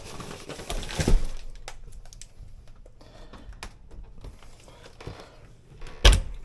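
Rustling and handling noises with scattered light clicks, then a sharp knock about six seconds in.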